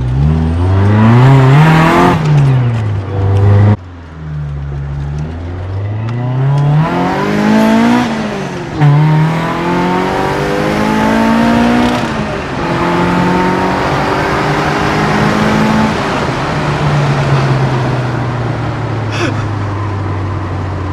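Freshly rebuilt Toyota 4A-GE twin-cam four-cylinder being run in under full load: the revs climb hard and drop sharply at each gear change, several times over. For the last several seconds it holds a steadier note that slowly falls.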